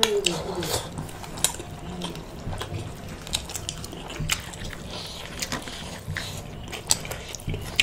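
Close-miked chewing and lip-smacking of people eating chicken and rice with their hands: irregular wet clicks and smacks.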